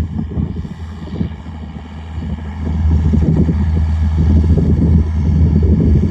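Straight-piped John Deere 4630's six-cylinder turbo diesel running steadily in the field. It dips a little about a second in and swells louder again from about three seconds.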